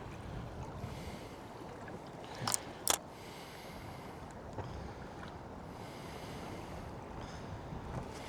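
Steady wash of sea water and wind around a small boat drifting on a light chop, with two sharp knocks close together about two and a half seconds in.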